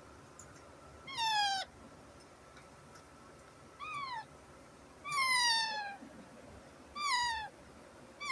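Baby parrot calling: a series of about five drawn-out calls, each sliding down in pitch and lasting under a second, coming every second or two.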